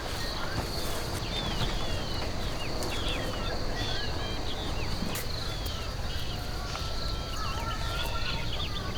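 Small birds chirping in many short, quick calls over a steady high insect drone, with a low rustling background noise.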